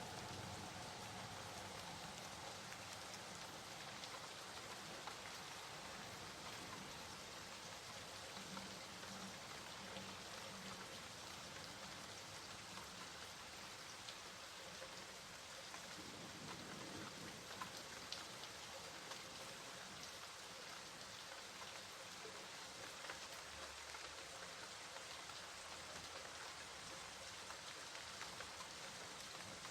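Steady, fairly soft rain falling, with faint scattered drop ticks over an even hiss.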